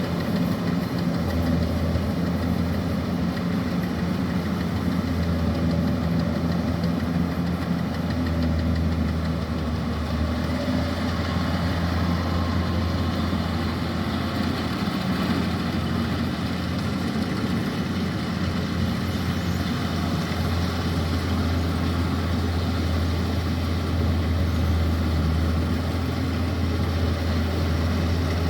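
Kubota DC-105X rice combine harvester's diesel engine running steadily, a constant low drone.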